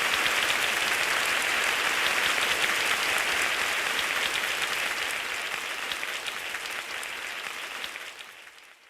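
Audience applauding, a dense crackle of clapping that fades away over the last few seconds into silence.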